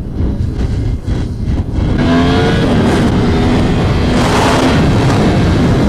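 Yamaha R1M's crossplane inline-four engine through a custom aftermarket exhaust, ridden on the road. It crackles and pops in the first two seconds or so, which the rider hears as the bike starting to backfire, then accelerates with its pitch rising, twice.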